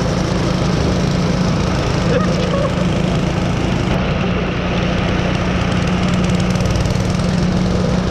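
Small single-cylinder gas engine running at a steady speed, giving an even drone with no change in pitch.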